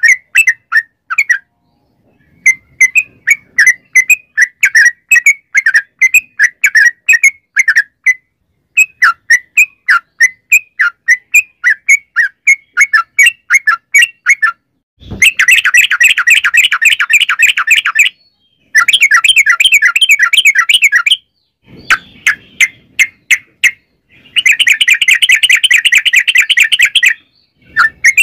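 Yellow-vented bulbul (trucukan) singing in loud bursts of quick, bubbly chirping notes. These are broken by short pauses and by two long, fast rattling trills, the 'ropel' the birdkeepers prize.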